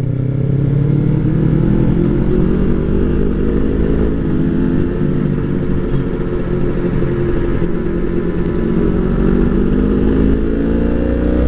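Motorcycle engine running under way, its pitch climbing slowly for the first few seconds, wavering, then climbing again near the end.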